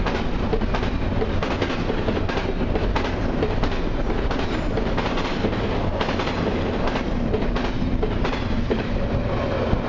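Double-stack intermodal well cars of a long freight train rolling past close by: a steady rumble of steel wheels on rail with a rapid, irregular clickety-clack of wheels over rail joints.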